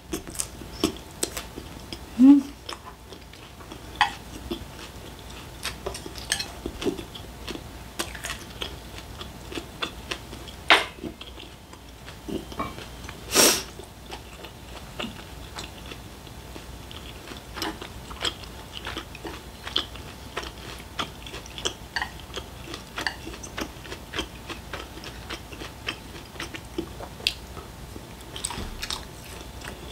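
Close-miked chewing of grilled beef intestines, with many small wet mouth clicks and smacks, and chopsticks tapping a small plate. One louder click comes about halfway through.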